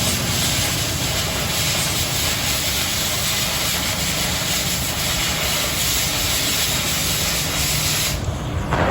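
Oxy-fuel cutting torch running on 1/4 inch steel plate: a steady, loud hiss of the gas jet through the cut. The hiss drops away sharply near the end, leaving a lower rumble.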